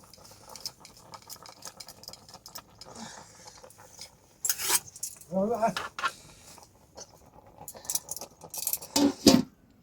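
A run of clinks and clatters from small hard objects being handled, like metal dishes or utensils. There is a short pitched call about five seconds in, and the loudest knocks come near the end.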